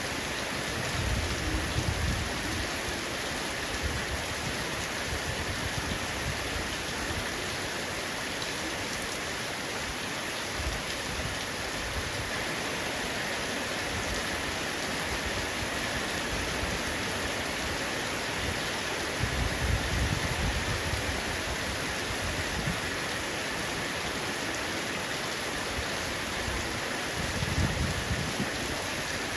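Heavy rain falling steadily on a roof, a constant dense hiss of drops. Low rumbles swell up three times: about a second in, around twenty seconds in, and near the end.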